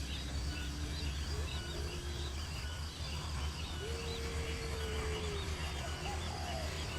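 Small birds chirping with many short, high, repeated calls over a steady low rumble, with one longer, lower drawn-out note about four seconds in.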